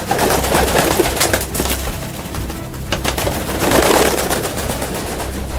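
Bird calls with low cooing over a loud, steady hiss-like background broken by scattered clicks.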